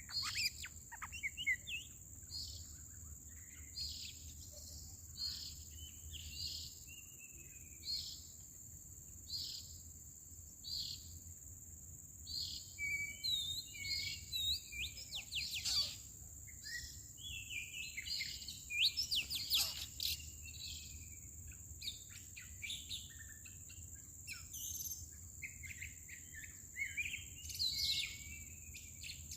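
Songbirds calling in forest: a short high note repeated about once a second, then a busier stretch of varied chirps and whistles in the middle, thinning out again towards the end. A steady high-pitched insect drone runs underneath.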